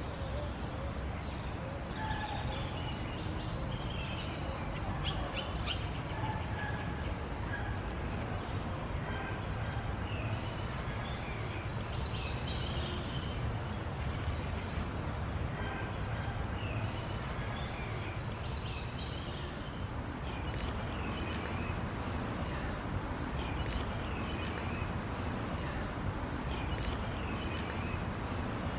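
Parakeets chirping in short, scattered calls over a steady low background rumble.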